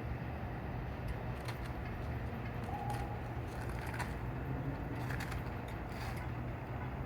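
Steady low hum and rumble of an NJ Transit commuter train's engine running at the station, with scattered faint clicks and a brief higher tone about three seconds in.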